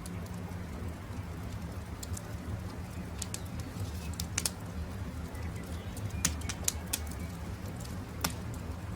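Campfire crackling: a steady low rumble with a handful of sharp pops, the loudest about six seconds in. Birds call in the background.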